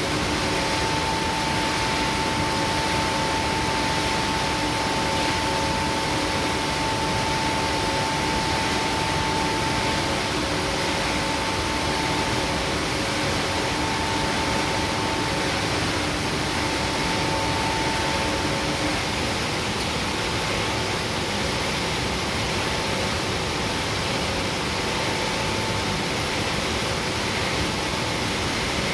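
Palm oil mill machinery running with a steady loud din and a faint whine that breaks up and fades about two-thirds of the way in.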